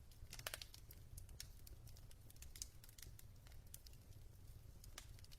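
Near silence: a faint low hum with small, irregular clicks scattered through it, a few stronger ones close together about half a second in.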